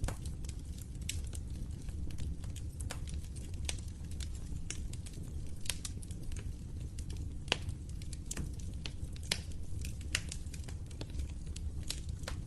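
Wood fire crackling in a fireplace: irregular sharp pops and snaps over a steady low rumble, with a few louder pops in the second half.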